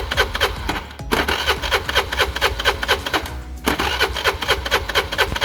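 Honda Activa scooter's starter cranking its single-cylinder engine in an even rhythm of about five strokes a second, without it catching, with a brief break about a second in and another past three seconds. The carburettor has been run dry, so the engine cannot fire.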